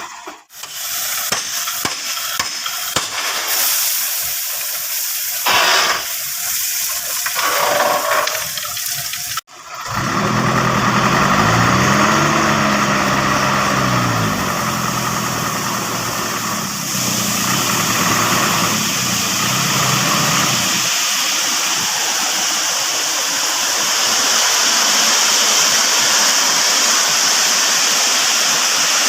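Old dump truck's engine revving up and back down for about ten seconds after a sudden cut, then giving way to a steady rushing noise.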